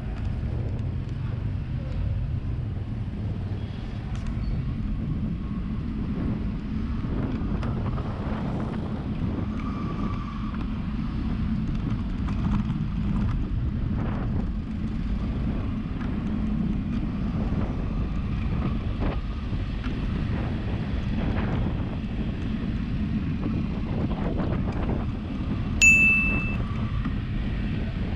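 Steady wind and road noise from riding along on a bicycle. Near the end there is one sharp, bell-like ding that rings briefly.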